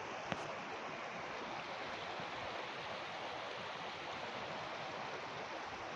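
Steady rushing of flowing water, an even hiss-like wash with no change in level. A single faint click comes about a third of a second in.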